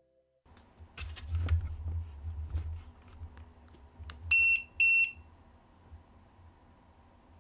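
A few handling knocks and clicks, then two short, high electronic beeps about half a second apart from the Segway Ninebot C8 scooter's buzzer.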